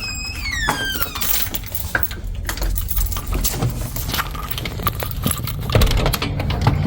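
Keys jangling, with scattered clicks throughout. A short high squeak falls in pitch over about the first second.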